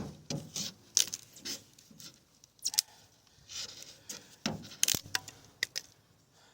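OTF knife blade being batoned through wood: a run of irregular sharp knocks and clicks of wood against the steel blade.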